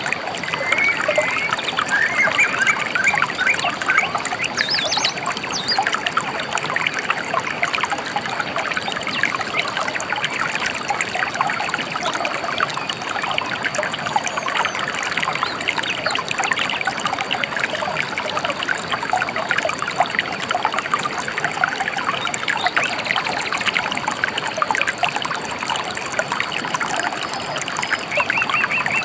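Shallow river or stream trickling and babbling steadily, with a few short bird chirps in the first few seconds and again near the end.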